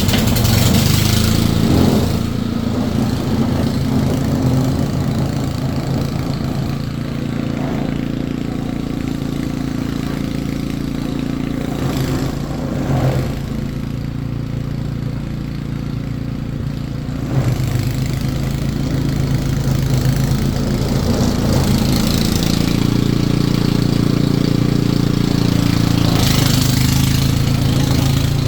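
An engine running steadily with an even low hum, getting a little louder about two-thirds of the way through.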